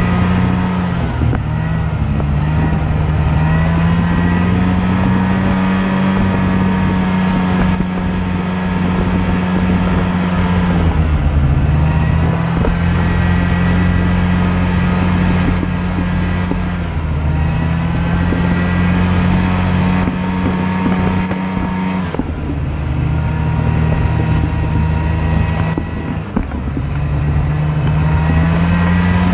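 Snowmobile engine running steadily at speed. Its pitch dips and climbs back about four times as the throttle is eased off and opened again.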